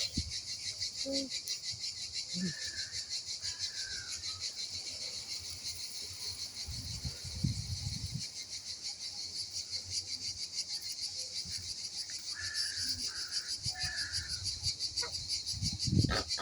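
Insects trilling: a steady, high-pitched, rapidly pulsing chorus that runs throughout. A few short calls sound over it twice, and there is some low rumbling near the middle and the end.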